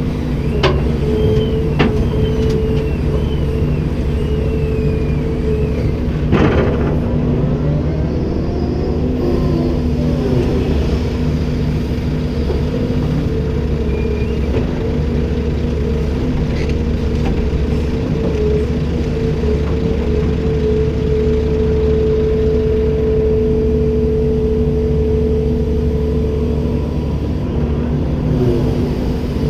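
Komatsu PC290-10 excavator running steadily with a humming tone, and a few sharp knocks in the first seven seconds.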